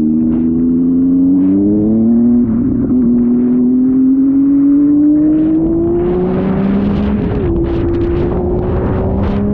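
Motorcycle engine under way, its pitch climbing slowly as it pulls, with a short wobble about two and a half seconds in and a step down in pitch about seven and a half seconds in. Wind buffets the microphone in gusts through the second half.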